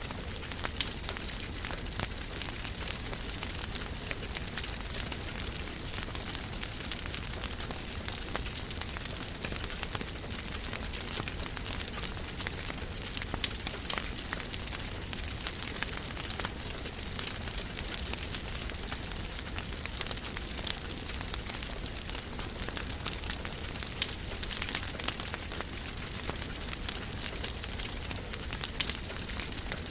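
Wood fire burning in a fireplace: a steady hiss with many small crackles and a few louder pops.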